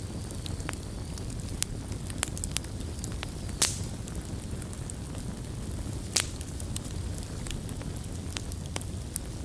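Wood fire burning in a fireplace: a steady low rumble of flame with scattered crackles, and two louder pops from the burning logs, one after about three and a half seconds and one after about six.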